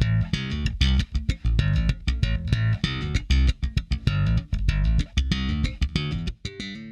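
Electric bass guitar playing a quick run of plucked notes, run through a tube-preamp channel strip plugin; the line dies away near the end.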